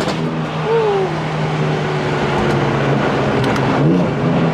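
Car engine and exhaust running steadily at low revs, with a steady drone and road noise; the engine note briefly rises near the end.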